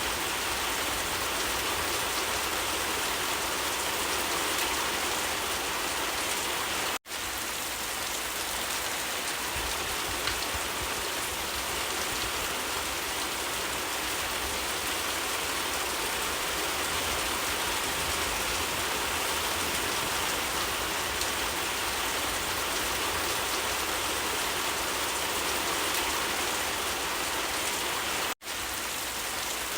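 Steady rainfall, an even hiss of drops on surfaces, which cuts out briefly twice.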